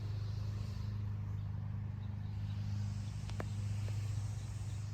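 A steady low hum, with a faint click about three seconds in.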